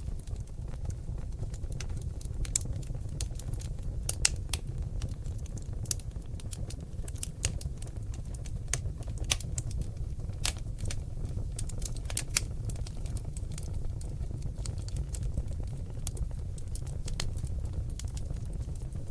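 Seasoned oak logs burning in a fireplace, crackling with irregular sharp pops over a steady low rumble from the flames.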